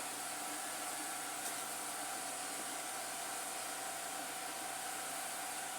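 Steady hissing background noise with a faint constant hum, unchanging throughout.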